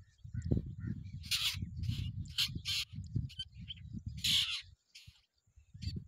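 A bird giving a series of short, harsh calls, the loudest about four seconds in, over a steady low rumble.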